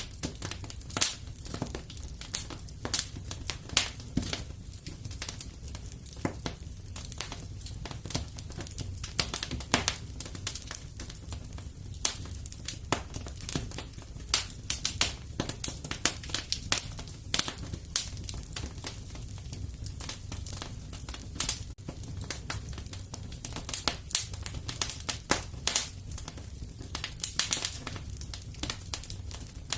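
Wood fire crackling in a fireplace: a steady stream of sharp, irregular pops and snaps over a low, even rumble of the flames.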